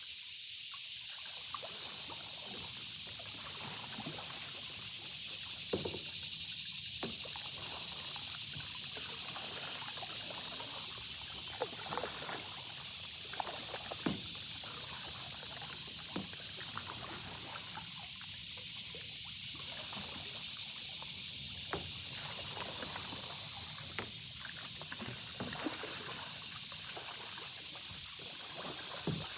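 Canoe being paddled on a slow creek: irregular paddle strokes with water trickling and dripping off the blade, and now and then a short knock, over a steady high hiss.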